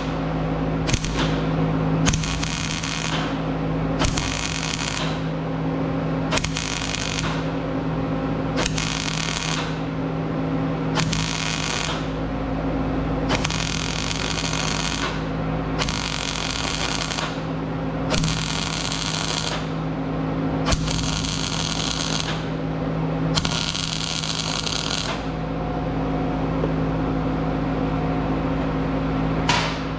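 Miller-Matic MIG welder laying a series of spot welds to fill a gap: about a dozen short spells of welding, each about a second long and a second or two apart, ending about 25 seconds in. A steady hum runs underneath throughout.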